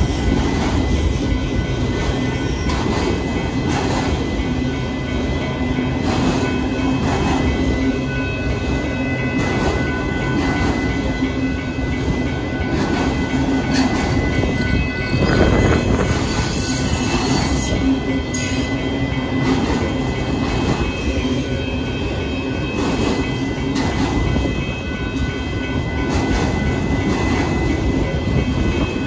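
Freight train of autorack cars rolling past at a grade crossing, its steel wheels clattering steadily over the rail joints, with a high wheel squeal for a few seconds around the middle.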